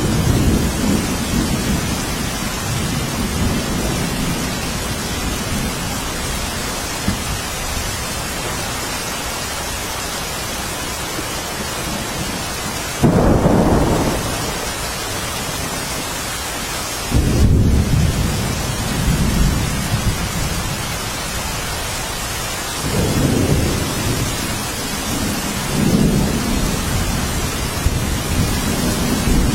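Steady rainfall with low rolling thunder; the thunder swells up suddenly twice, about 13 and 17 seconds in, and rumbles again near the end.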